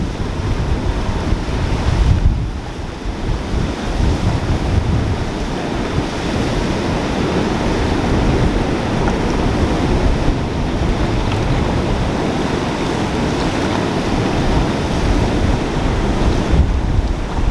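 Flooded creek rushing steadily past, swollen to about 1,000 CFS after heavy rain, with wind buffeting the microphone.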